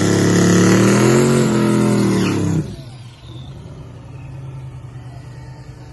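Twin-turbo LS 5.3 V8 in a Foxbody Mustang running loud, its pitch rising and falling as it is revved. About two and a half seconds in, the sound drops abruptly to a much quieter, steady engine hum.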